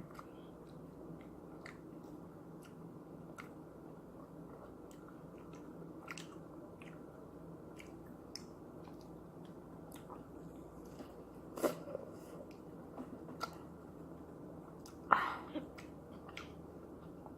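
Close-up chewing and biting of juicy pineapple slices: small wet mouth clicks throughout, with two louder sudden bites or mouth sounds, one past the middle and one near the end.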